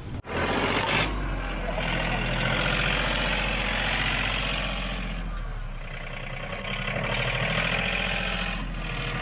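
Kioti RK37 tractor's diesel engine running under load with a steady hiss over it, easing off about six seconds in and picking up again, as the rear tire is spun to test whether the rim still slips inside the tire.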